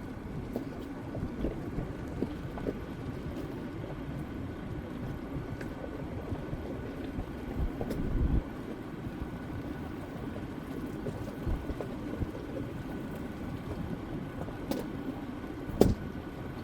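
Jeep Grand Cherokee WJ 2.7 CRD diesel driving off-road: a steady low rumble with scattered knocks, two louder ones about halfway through and near the end.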